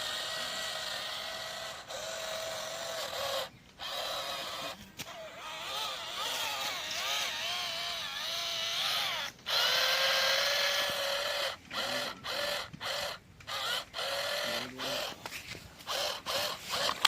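Small electric motor and gearbox of a remote-control toy tractor whining as it drives, the pitch wavering as the load changes. It stops and restarts briefly a few times, then in quick short spurts over the last several seconds.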